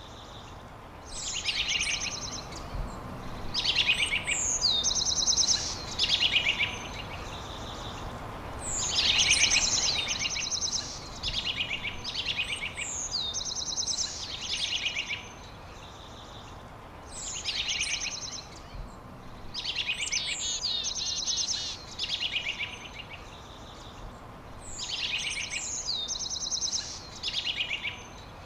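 A songbird singing in the open, repeating a similar high phrase every few seconds: a quick downward sweep running into a fast, buzzy trill.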